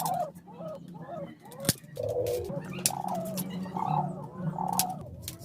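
Birds calling over and over in short rising-and-falling notes, with a few sharp clicks or knocks among them.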